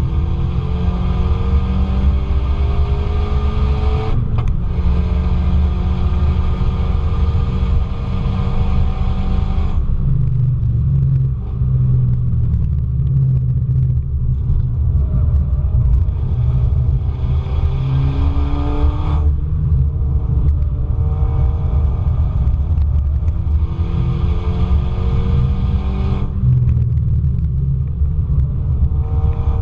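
Car engine under hard acceleration heard on board, its pitch climbing repeatedly and dropping at gear changes and lifts, over a steady low rumble of road and tyre noise.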